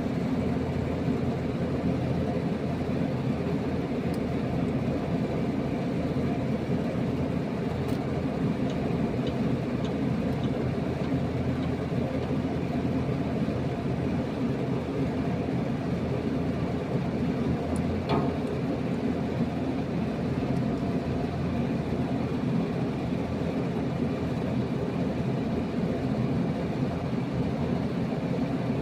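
Steady low mechanical hum, unchanging throughout, with a couple of faint light clicks.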